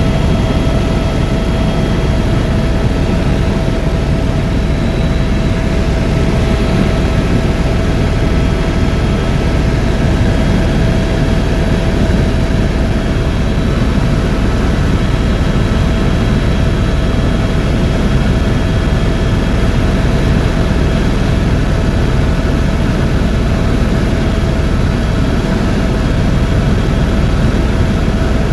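Tour helicopter's turbine engine and rotor running in flight: a loud, steady drone with a constant whine on top.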